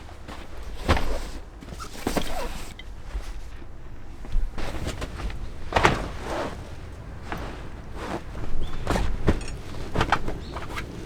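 Irregular knocks, thuds and clatter of objects being handled and set down, with footsteps.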